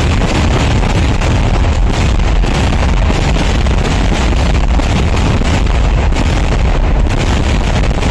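Traditional Kerala temple fireworks (naadan vedikettu) in a massed barrage: blasts go off in rapid, unbroken succession and run together into one continuous loud rumble.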